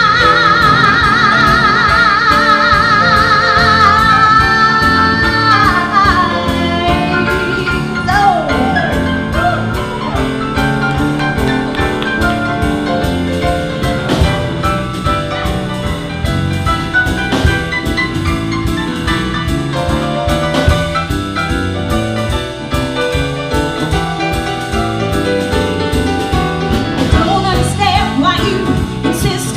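Live band of piano, drums and bass playing a song, with a female singer holding a long high note with wide vibrato for the first few seconds before sliding down; after that the band plays on with little or no singing.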